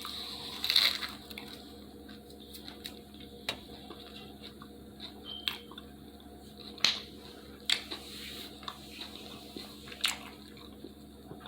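A person eating pizza: scattered wet mouth clicks and smacks of chewing, a few seconds apart, over a faint steady hum.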